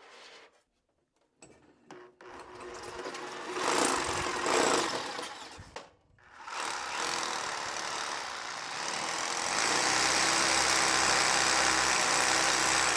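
Handheld electric power tool motor running in two stretches: one of about three seconds, a brief stop, then a longer run that grows louder and heavier partway through, as if under more load.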